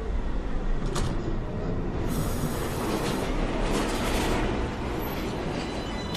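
New York City Subway 1 train's doors shutting with a knock about a second in, then the train starting to pull out. A burst of hiss comes in about two seconds in, over a steady rumble.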